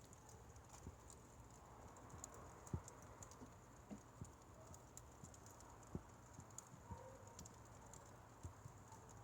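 Firewood fire crackling faintly: small irregular pops and snaps from the burning logs.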